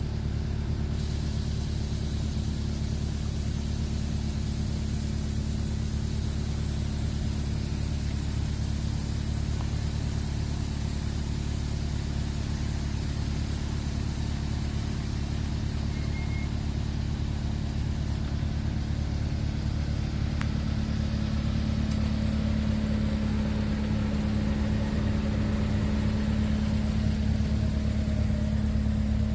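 Honda Civic EX-T's 1.5-litre turbocharged four-cylinder idling steadily, with a steady high hiss from about a second in; it gets a little louder over the last several seconds.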